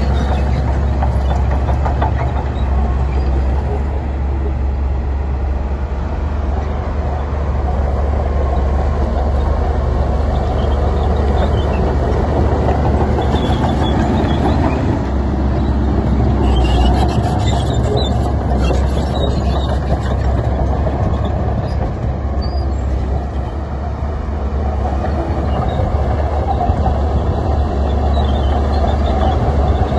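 Heavy diesel earthmoving machinery running steadily with a deep, continuous rumble, with a short run of metallic clanks and rattles about halfway through.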